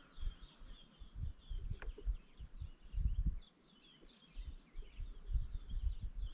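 Wind gusting against the microphone in uneven buffets, over a continuous high chirping in the background.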